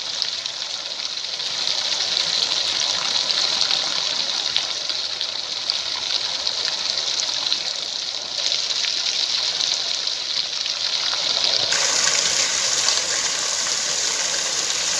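Heavy rain falling: a steady hiss with many small drop impacts, its tone shifting slightly twice.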